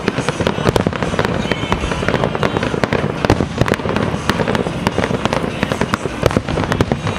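Aerial fireworks display: a continuous, rapid barrage of shell bursts and crackle, many bangs a second.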